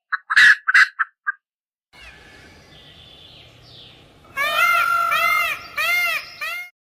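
Animal calls: a quick run of four or five short calls, then, after a pause over a low background hiss, a series of five or six pitched calls that each rise and fall in pitch, about two a second.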